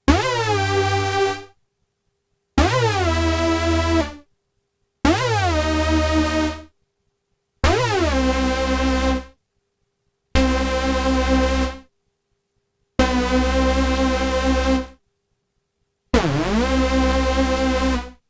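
Korg NTS-1 synthesizer playing a hoover sound from its Hoovic oscillator: seven held notes, each starting with a differently shaped pitch swoop before settling. One note is played for each of the seven pitch-envelope presets.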